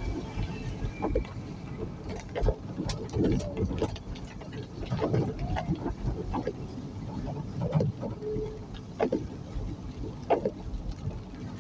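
Road noise from a moving vehicle, with low wind rumble on the microphone and scattered irregular knocks and bumps.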